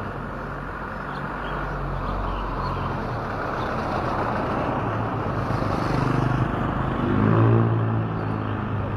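A motor vehicle's engine running and growing louder as it comes near, loudest near the end, with faint bird chirps above it.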